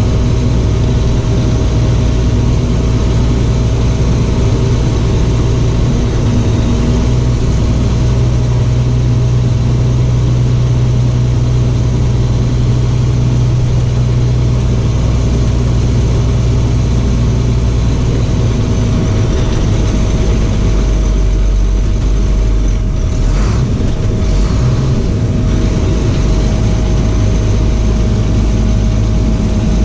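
Box truck engine running steadily while the truck is driven, the engine note shifting about a quarter of the way in and again about two-thirds through.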